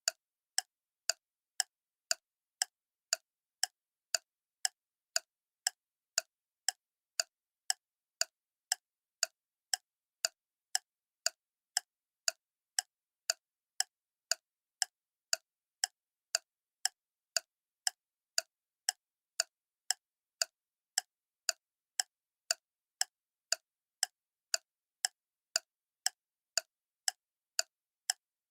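Clock ticking steadily at about two sharp, even ticks a second, with clean silence between the ticks.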